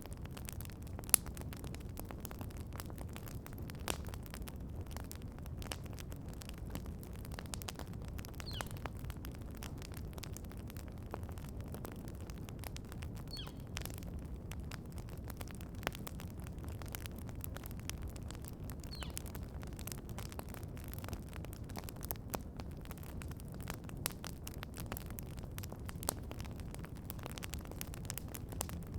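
Wood campfire crackling, with frequent sharp pops over a low rumble of burning. A bird gives a short, high chirp a few times, about every five seconds.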